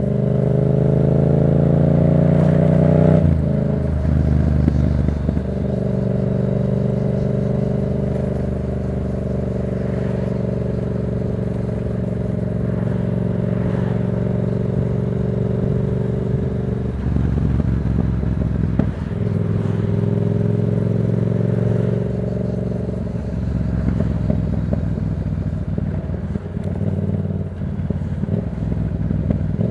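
A 2024 Yamaha MT-07's 689 cc parallel-twin engine running through a Black Widow aftermarket exhaust while being ridden. The revs climb for about three seconds and break off, then the engine holds a steady drone for over ten seconds. The sound drops away twice in the second half and turns rougher near the end.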